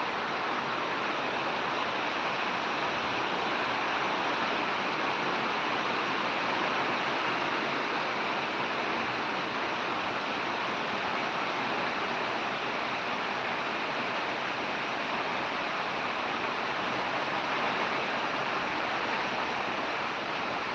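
Heavy rain falling, a steady, even wash of noise.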